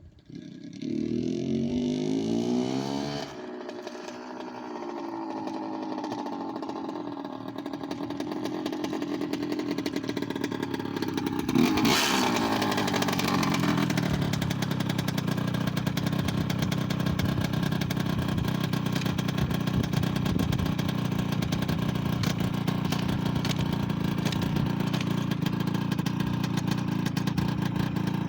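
1988 Suzuki RM 80's single-cylinder two-stroke engine firing on a cold start about a second in. It revs up briefly, drops back and climbs slowly as it warms, gives a sharp rev about twelve seconds in, then settles into a steady, even run.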